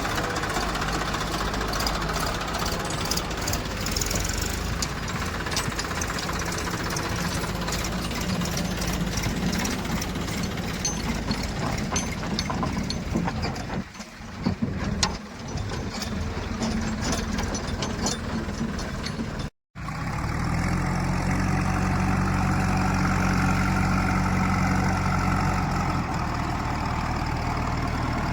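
Heavy diesel engine running, with many short knocks and clanks in the first half. After a brief break about two-thirds through, an engine runs steadily with an even low hum.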